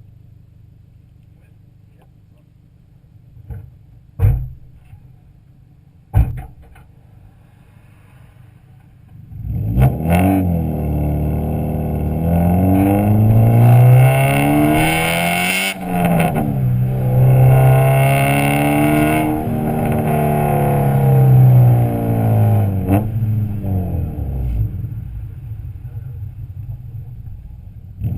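Honda B16 DOHC VTEC four-cylinder breathing through a Skunk2 Alpha header, decat pipe and Skunk2 Megapower R exhaust: a low idle with two sharp knocks, then from about ten seconds in the engine is run hard, its pitch rising and falling several times with a brief drop near the middle before easing off toward the end.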